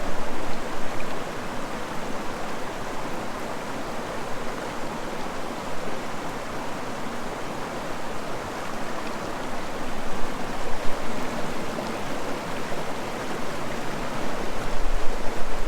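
A swift mountain stream rushing, a steady wash of water noise.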